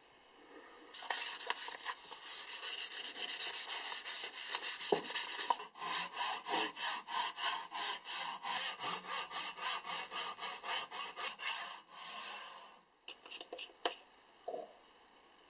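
Hand saw cutting through a wooden axe handle in quick, even back-and-forth strokes, about three a second, with a short break about halfway and a stop near the end. A few light clicks follow as a plastic bottle cap is unscrewed.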